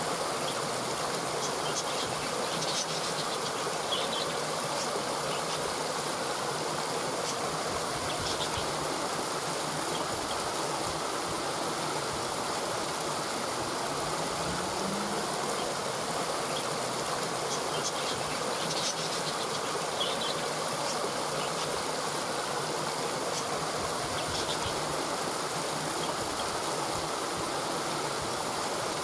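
Steady rushing water of a stream, with faint high chirps coming in two short clusters, one early and one past the middle.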